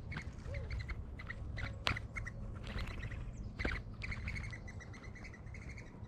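Small birds chirping repeatedly close to the microphone in short, quick notes, with two sharp knocks about two seconds and three and a half seconds in, over a steady low rumble.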